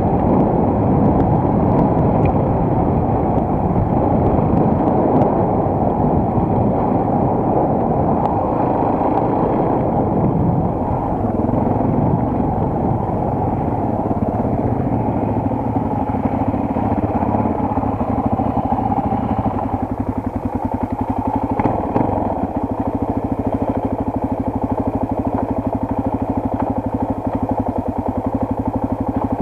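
Single-cylinder four-stroke enduro motorcycle engine running, first under way and then easing off to a steady idle in the second half.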